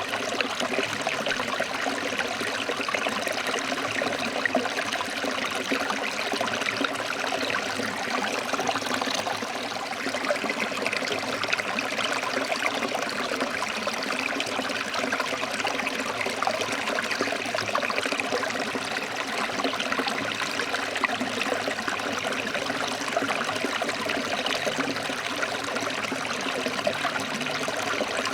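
Water of a forest river flowing over rocks: a steady rushing and splashing that holds even throughout.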